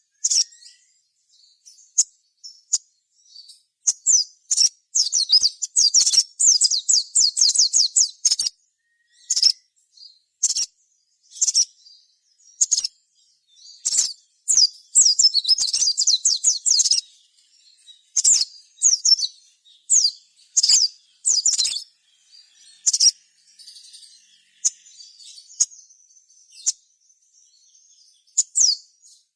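Sogon (sogok ontong, the little spiderhunter) calling: sharp, high chirps, loose single notes broken up by fast chattering trills twice, at about 5 and 15 seconds in.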